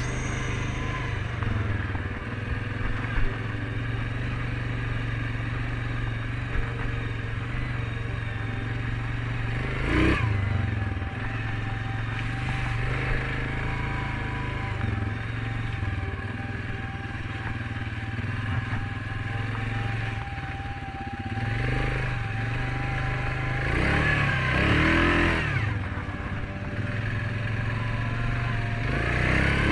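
Suzuki King Quad 750 ATV's single-cylinder four-stroke engine running steadily while riding a muddy trail. It surges louder briefly about ten seconds in and twice near the end.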